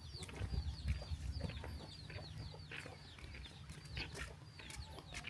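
Chickens calling: a rapid run of short, high, falling peeps, with a low rumble underneath.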